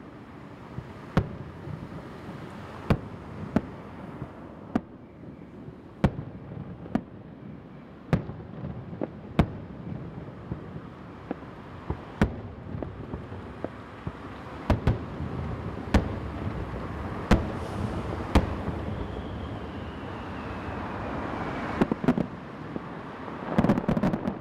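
Aerial firework shells bursting: sharp bangs about once a second at irregular spacing, with a quick cluster of bangs near the end.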